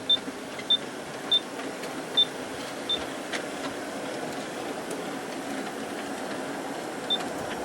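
G scale model train pulled by four USA Trains F3 locomotives, running steadily along the track: an even rolling rumble of wheels and motors, with short high chirps at uneven intervals.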